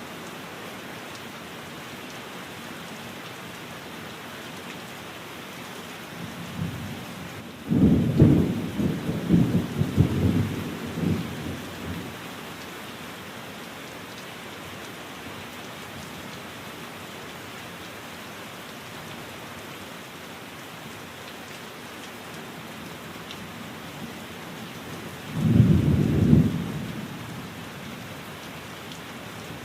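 Steady rain with two rolls of thunder: a longer, loud rumble about a quarter of the way in that lasts several seconds, and a shorter one near the end.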